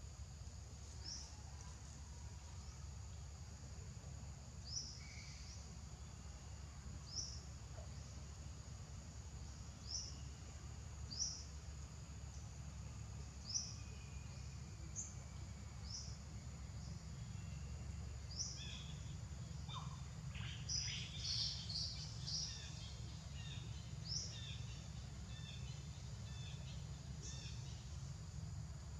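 Outdoor ambience of birds calling: a short high chirp repeats every couple of seconds, and a quick run of varied chirps comes about twenty seconds in, over a steady low rumble.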